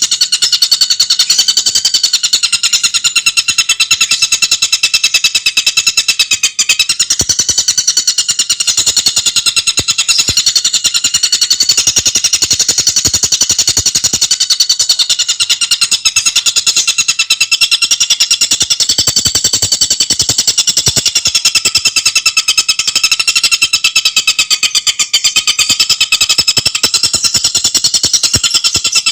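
Tengkek buto bird singing a high, rapid, unbroken chattering trill of very fast-repeated notes, dense and steady throughout.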